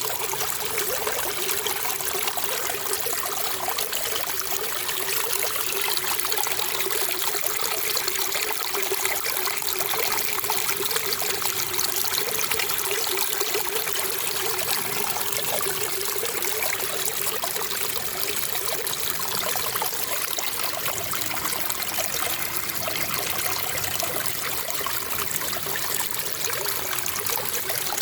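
Water trickling and flowing steadily in an unbroken wash, as of a small stream.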